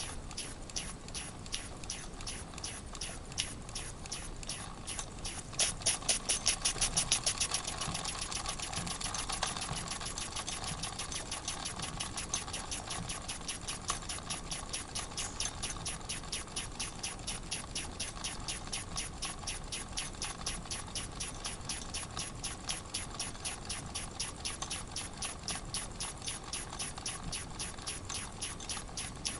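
Wilesco model steam engine at a slow tickover, chuffing steadily at a few puffs a second, with steam blowing out of the leaking cylinder on each stroke: a missing screw has left a hole in the steam chest, so the double-acting piston is running on half an engine. The puffs are louder for a couple of seconds about six seconds in.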